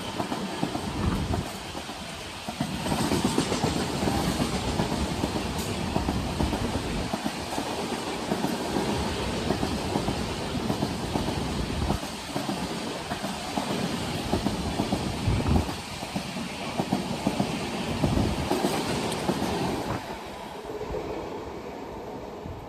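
Passenger express train passing close by at speed, its wheels clattering over the rail joints in a steady run of thumps. The noise fades near the end as the train goes by.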